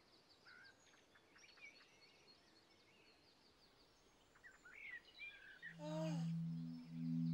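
Faint birdsong: scattered chirps and short trills of small songbirds. About six seconds in, low, steady musical tones begin.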